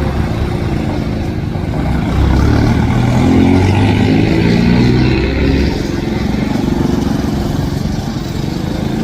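Diesel train engine running with a low, steady drone that grows louder about two seconds in and eases back after about five and a half seconds.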